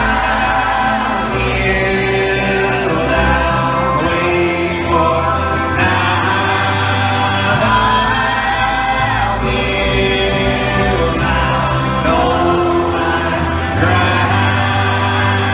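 Live band music with several voices singing together in a choir-like blend over sustained instruments, heard as an audience recording in a concert hall.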